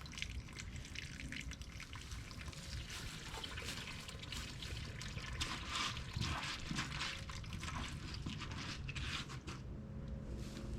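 Water from a garden-hose flush trickling and spattering in an irregular stream, thinning out near the end.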